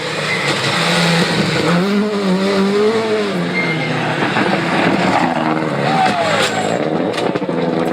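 Rally car engine revving hard, its note climbing and dropping again and again as it is driven flat out through the gears.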